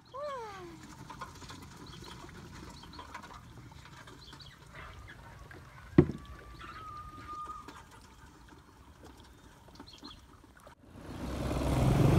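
Quiet rural outdoor ambience with bird calls: a short falling call at the very start, faint high chirps, and a held steady whistle just after a single sharp click about halfway through. Near the end the sound cuts out briefly, then a louder rushing noise rises in.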